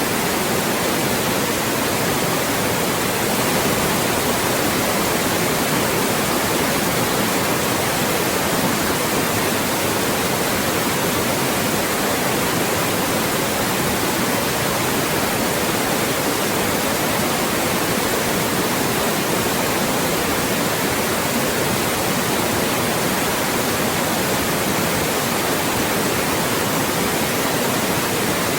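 Loud, steady white noise: an even hiss that does not change, used to mask speech.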